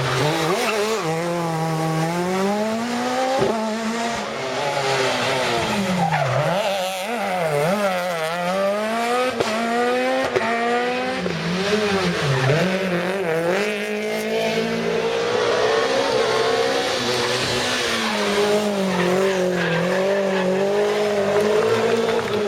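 Rally car engine revving hard, its pitch repeatedly climbing and dropping through gear changes and lifts as the car is driven flat out along a stage.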